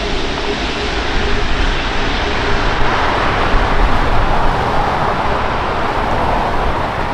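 Qantas Airbus A380's four Rolls-Royce Trent 900 turbofans running at taxi power, a steady jet rush. A faint hum fades out at first, and the sound turns brighter and hissier about three seconds in.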